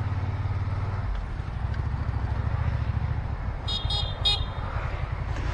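Suzuki SV650's V-twin engine running steadily at low speed in traffic. About two-thirds of the way in, a small vehicle horn gives three short toots in quick succession.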